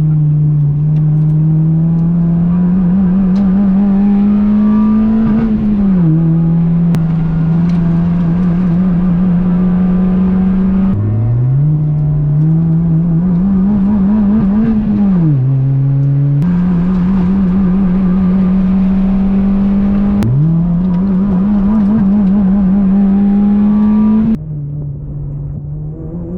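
Honda Fit's four-cylinder engine running hard at high revs, heard from inside the car; its pitch climbs and then falls back several times as the revs rise and drop. About two seconds before the end it falls to a quieter, lower note.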